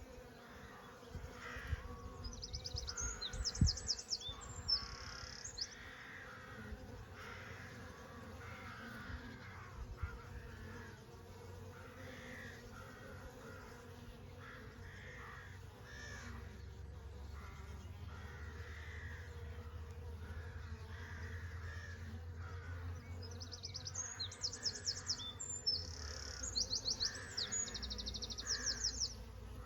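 Honey bees buzzing steadily while birds sing and call. Rapid high-pitched bird calls come about two seconds in and again over the last few seconds.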